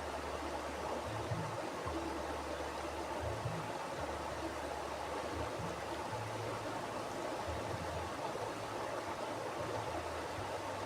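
Mountain river flowing over rocks: a steady rushing of water with a low rumble that swells and fades.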